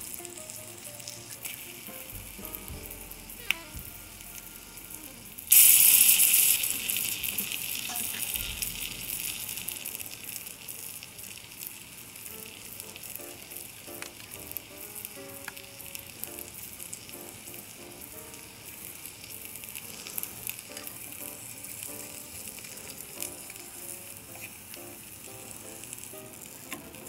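Salmon fillets frying in butter in a miniature stainless steel saucepan, a steady sizzle. About five seconds in the sizzling jumps suddenly much louder, then dies back down over several seconds. Soft background music runs underneath.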